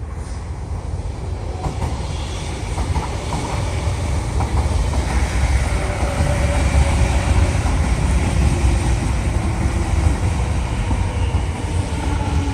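MTR East Rail line R-train electric multiple unit running into the platform: a low rumble that grows steadily louder, with faint motor tones sliding down in pitch as it slows.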